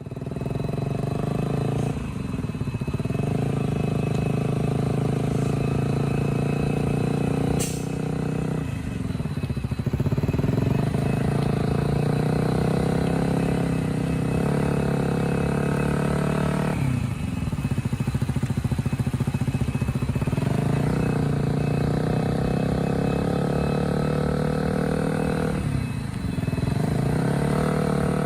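KTM RC 125's single-cylinder four-stroke engine running through an aftermarket Akrapovic exhaust at steady high revs. Four times, about every seven to eight seconds, the revs dip briefly and climb back.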